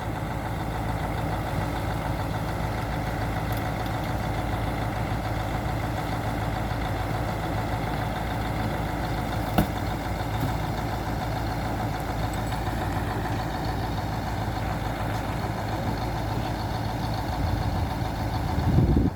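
Firewood delivery truck's engine idling steadily, with a faint click about ten seconds in and a brief low rumble near the end.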